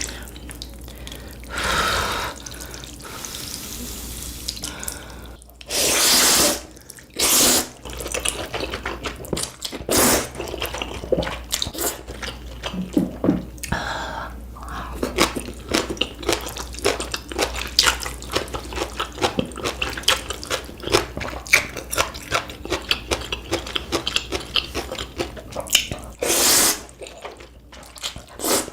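Close-miked eating of ramen: a few loud slurps of noodles, each about a second long, with wet, clicky chewing in between.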